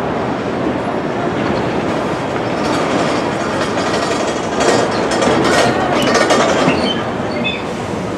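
Train running on its rails, a loud steady rumble and clatter that swells from about halfway through, with a few short high wheel squeals near the end.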